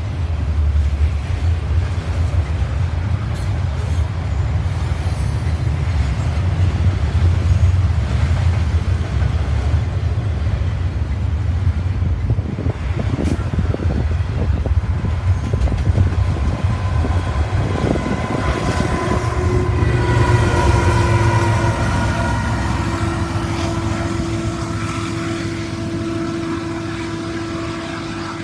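Double-stack container cars rumbling and clattering over the rails. Then the trailing CN ET44AC distributed-power locomotive passes, its engine adding a steady whine of several notes that drops slightly in pitch and fades as it moves away.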